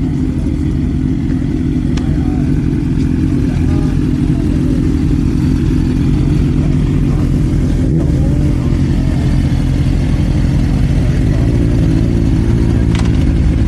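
A steady low rumble of a running vehicle engine, with faint voices in the background.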